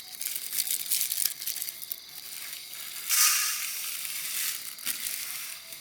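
Plastic packets of puffed rice (murmure) being handled and emptied: crackling plastic and dry puffed rice rustling, with a louder rushing pour about three seconds in.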